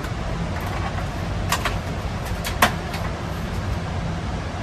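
Packaging of a dessert being opened: a few sharp plastic clicks and crackles about a second and a half in and again near the middle, the last one the loudest, over a steady low hum.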